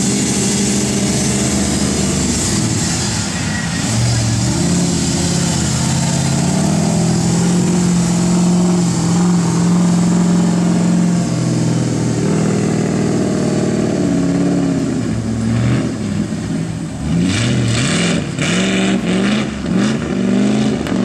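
Tuff-truck pickup's engine running hard at high revs, then revved up and down in quick bursts over the last several seconds, with a few sharp knocks among the revs.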